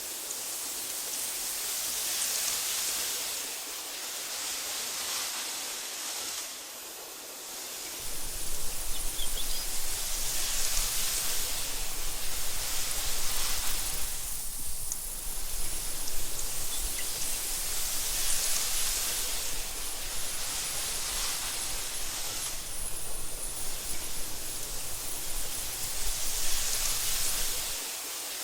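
Wind rustling through meadow grass, rising and falling in soft gusts every few seconds. A low rumble joins about a third of the way in and cuts off just before the end.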